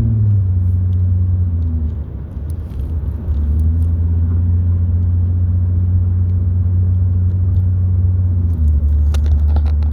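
Car running with a steady low engine and road rumble, its hum shifting in pitch a few times as speed changes.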